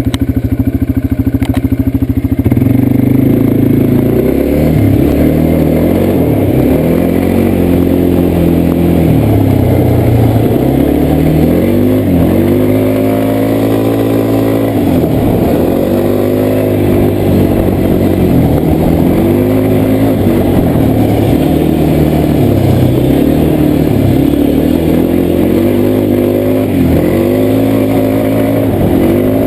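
ATV (quad bike) engine idling for a couple of seconds, then pulling away, its pitch rising and falling again and again as the throttle is opened and eased on the trail.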